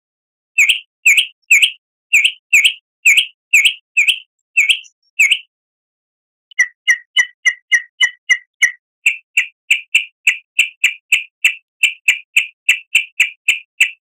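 Recorded songbird chirps played as a lure call: short, sharp, high notes repeated about twice a second, breaking off about five seconds in, then resuming faster at three to four a second, with dead silence between notes.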